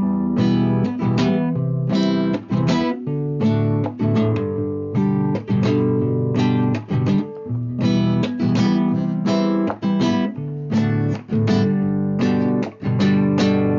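Acoustic guitar (violão) strumming chords in a steady forró rhythm, the instrumental close of the song after the singing has ended.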